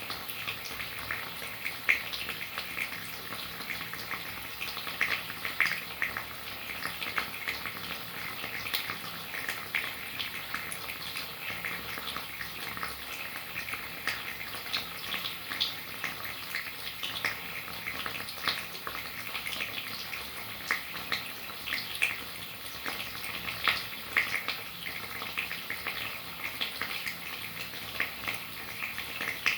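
Steady rainfall: an even hiss of falling rain with many small irregular drop splashes, a few of them louder.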